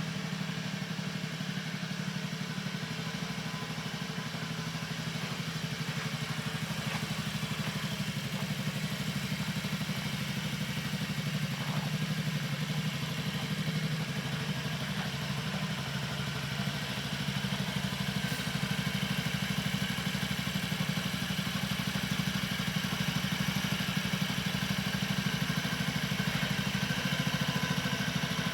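Honda Zoomer scooter's small four-stroke single-cylinder engine idling steadily.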